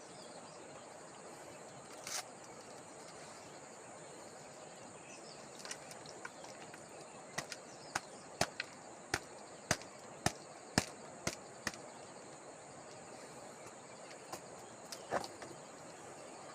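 Quiet outdoor background with a steady high-pitched hiss, broken by a run of about ten sharp clicks or taps at roughly two a second, starting about halfway through. A few single clicks come earlier and later.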